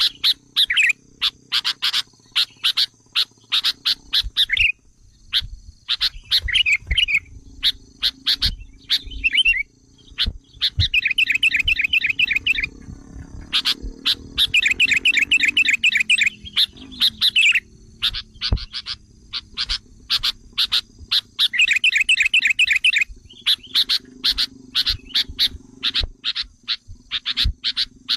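Sooty-headed bulbuls calling excitedly: a rapid string of sharp chirps broken three times by bursts of fast trilled chatter. These are the agitated, quarrelsome calls used as a lure to stir up wild bulbuls.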